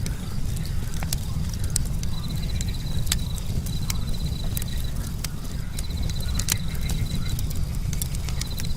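Campfire wood crackling and popping irregularly over a steady low rumble, with a cricket trilling in short runs in the background.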